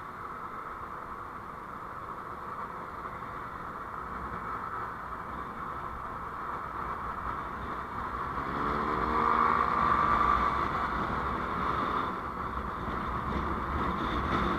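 Road vehicle noise while travelling in traffic: steady engine and road rush, with an engine revving up about eight seconds in and the sound at its loudest shortly after.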